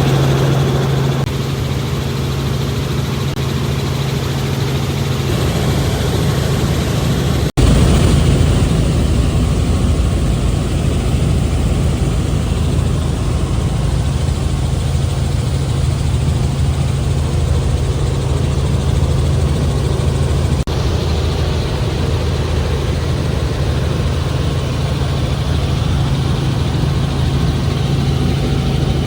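Helicopter in flight, heard from inside the cabin: a loud, steady drone with a strong low hum. It breaks off for an instant about seven and a half seconds in and shifts slightly at about twenty seconds, where takes are joined.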